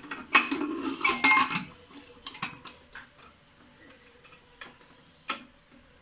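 Metal clattering and knocking as a pressure cooker lid is put on and closed, with a brief metallic ring, in the first second and a half, followed by a few sparse light clicks and one sharper knock near the end.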